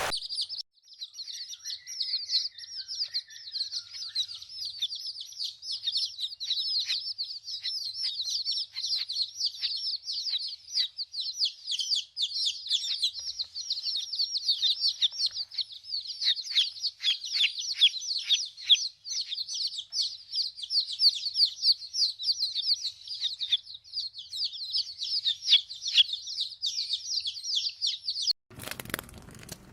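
Many small birds chirping rapidly and continuously in a dense chorus of high, overlapping chirps. It cuts off suddenly near the end and gives way to a short crackling rustle.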